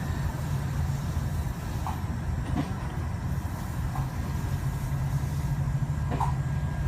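Steady low mechanical drone of running machinery, with a few faint ticks.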